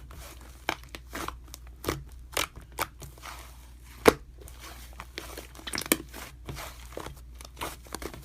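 Slime being squished and pressed by hand, giving irregular crisp crunching clicks and pops, the loudest about four seconds in.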